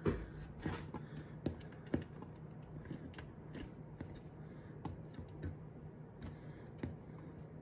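Irregular light clicks and plastic-and-metal clatter of a hot-plug SFF SSD drive carrier being handled and pushed into the front drive bay of an HPE ProLiant DL360 Gen10 server.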